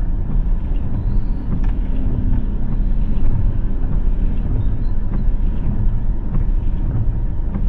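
A car driving in the rain: a steady low rumble of road and engine noise, with scattered faint ticks.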